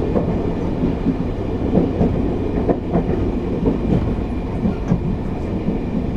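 Train running on the rails: a steady low rumble with irregular clattering knocks from the wheels.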